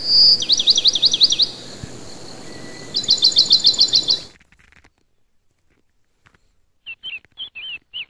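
A songbird singing: a short whistle, then a quick run of down-and-up sweeping notes, and after a pause a fast trill of about ten sharp high notes that stops abruptly. Quieter chirps follow near the end.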